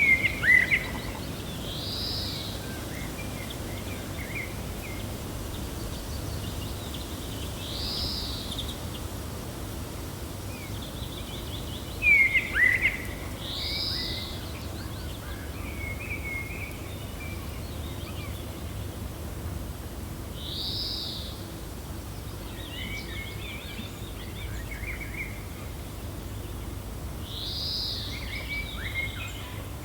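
Birds calling over a steady low wind rumble: a short arched call repeats about every six seconds, with scattered chirps between, the loudest at the start and about twelve seconds in.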